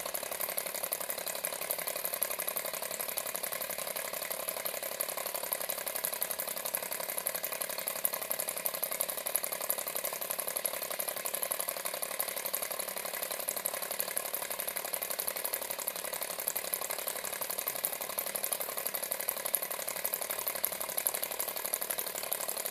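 Small model Stirling engine running steadily: a fast, even mechanical rattle from its moving parts.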